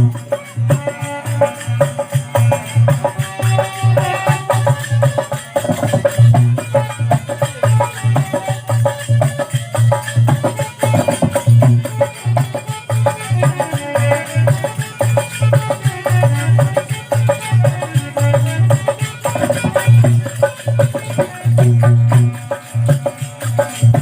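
Instrumental break in a devotional folk song: a hand drum keeps a steady, busy beat under shaken rattles or jingles, with a faint melody line above.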